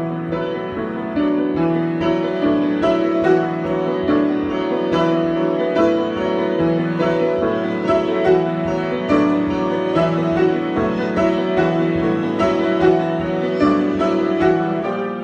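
Solo piano improvisation, with a steady stream of notes over a low bass line.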